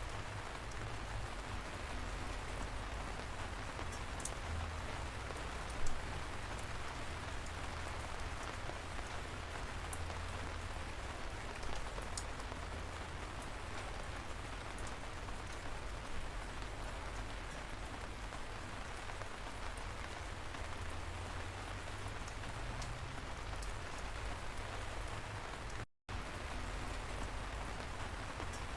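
Light rain falling steadily: an even hiss with scattered sharper drop taps. Near the end the sound cuts out completely for a split second.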